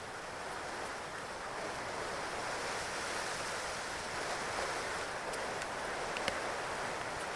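Steady rain, an even hiss, with a few faint light ticks in the second half.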